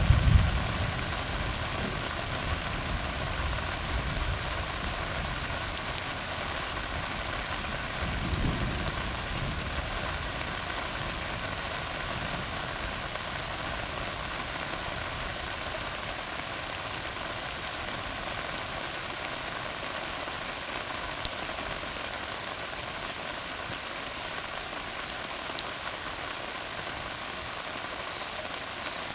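Steady rain pattering on a tar road, an even hiss with a few sharper drop ticks later on. A low rumble of distant thunder comes near the start and again about eight seconds in.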